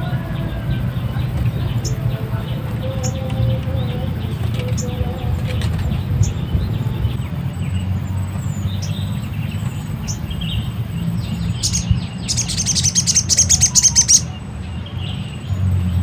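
Small birds chirping with short, high calls, then a loud burst of rapid chattering chirps lasting about two seconds near the end. A steady low rumble runs underneath.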